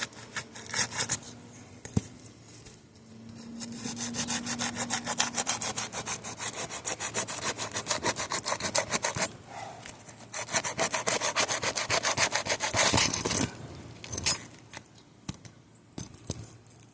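A flat bar being worked rapidly back and forth under asphalt shingle tabs, scraping to break the adhesive seal strip. It goes in two long runs of several strokes a second with a short break about nine seconds in, then a few scattered scrapes and knocks near the end.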